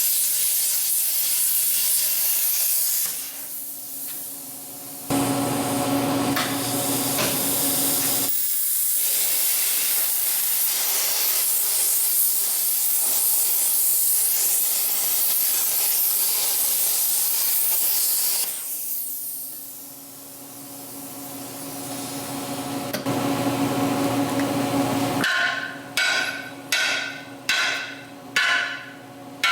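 A steady loud hiss that drops away twice, with a steady hum under it for a few seconds; then, about 25 seconds in, about seven hammer blows on metal, a little under two a second, each ringing.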